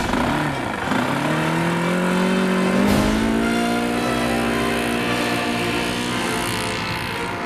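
Four-stroke engine of a large RC Tiger Moth model biplane revving up. Its pitch rises over about two seconds, then holds steady at high throttle.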